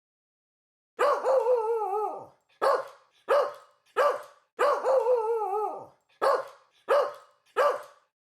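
Dog barking: a long, wavering bark-howl followed by three short sharp barks, and the same sequence heard again.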